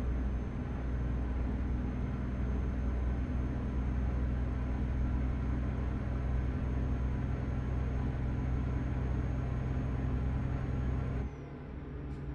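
Truck engine and road noise droning steadily inside the cab, with a faint high whine over it. About a second before the end the drone drops away sharply, and a single click follows.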